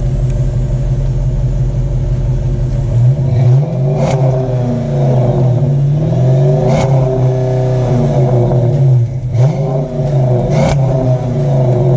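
2009 Dodge Challenger R/T's Hemi V8 idling through its exhaust, then revved several times from about three seconds in, each rev climbing and falling back to idle.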